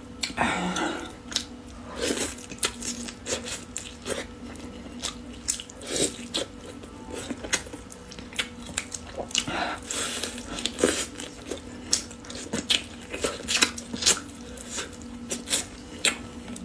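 Close-up eating sounds: a person biting and chewing soy-braised duck leg meat, with irregular wet clicks and mouth noises, over a faint steady hum.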